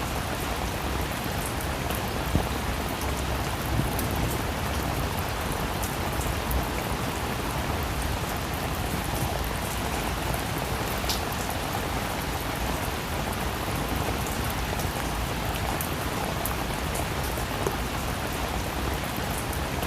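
Steady rainfall: an even hiss of rain with many small drop ticks, some louder drops landing close by.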